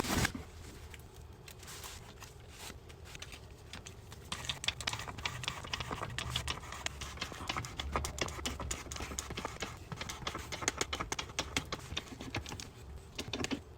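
Rapid, irregular clicking and tapping, denser from about four seconds in, over a faint low hum.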